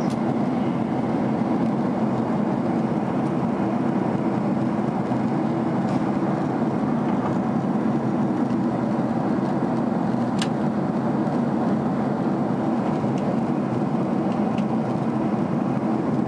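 Steady cabin noise of a Boeing 767 in flight: an even rumble of engines and airflow, with one faint click about ten seconds in.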